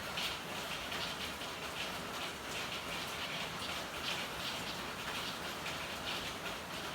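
Steady rain falling, a dense patter of drops with irregular louder drips.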